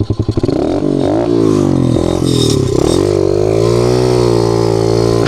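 Small single-cylinder pit bike engine, firing in separate pulses for the first half-second, then revving up and down repeatedly as the bike is ridden.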